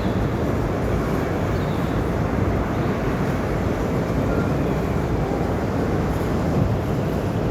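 Train rolling across a railroad drawbridge, a steady low rumble with no breaks.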